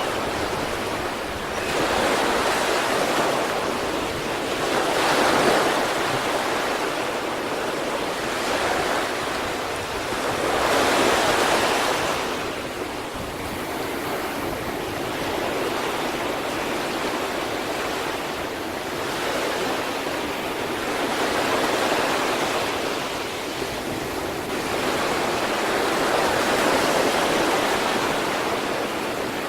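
Sea waves breaking and washing on the shore, a continuous rush that swells with each breaking wave every few seconds.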